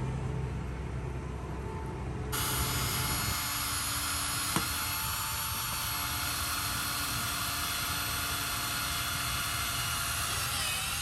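Power drill starts about two seconds in and runs steadily for about nine seconds with a high whine and one sharp click midway, boring an inspection hole into the boat's nacelle to check for trapped water; it stops near the end.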